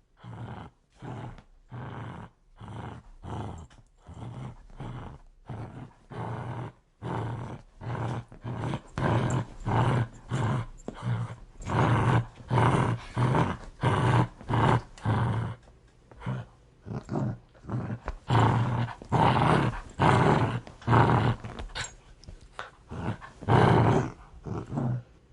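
A dog growling in a rapid series of short, rasping pulses, about two or three a second, building louder partway through and loudest near the end: an aggressive, warning growl.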